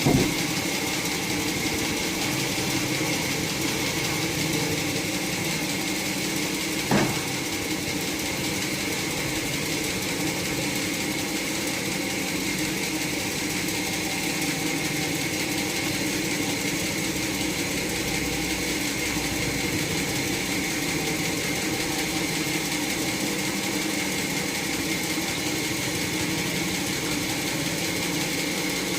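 Sawmill machinery running steadily with an even engine-like hum, with a sharp knock right at the start and another about seven seconds in.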